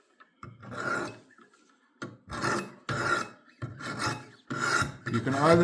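Coarse 200-grit sharpening stones on a Wicked Edge WE60 guided knife sharpener rasping along a dull kitchen knife's blade in about six separate strokes, each under a second, grinding a new edge onto it.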